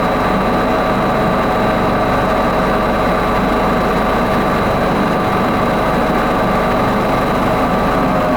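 Machinery of the Avió aeroplane ride, a single-car carousel carrying a replica aircraft, running steadily: a loud, even mechanical hum with several held tones and a thin high whine over a low rumble.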